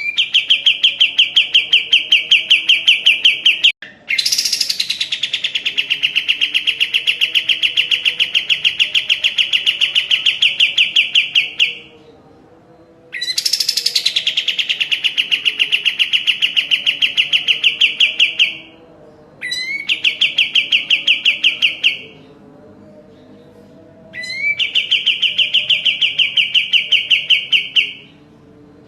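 Kapas tembak songbird singing long, fast trills of rapidly repeated high notes, about five or six a second. It sings five phrases of several seconds each, each one opening with a sharp upward note, with short pauses between them.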